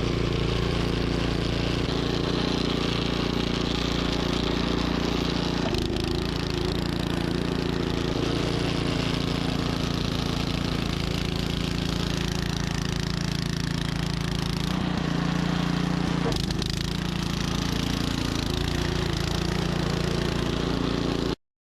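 Troy-Bilt snowblower engine running steadily under load, shifting slightly in tone twice, then cutting off suddenly near the end.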